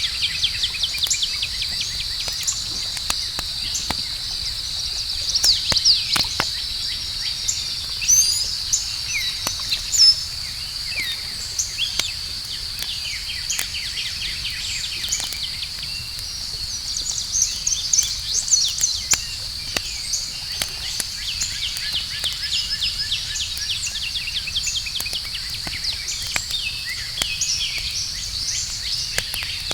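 Campfire crackling, with scattered sharp pops, over a steady high-pitched insect chorus and frequent chirping calls.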